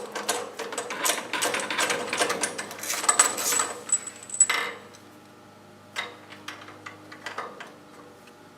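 Socket ratchet wrench clicking rapidly as it loosens the spark plug on a log splitter engine, then a few separate clicks and knocks after about five seconds.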